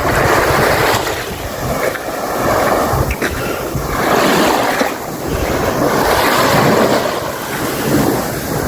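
Sea waves washing onto the beach, the surf swelling and easing in surges a few seconds apart, with wind buffeting the microphone.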